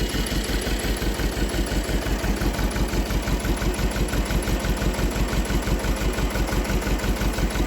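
Holder A30 compact tractor engine running steadily at a low, even speed, with a fast regular chugging beat.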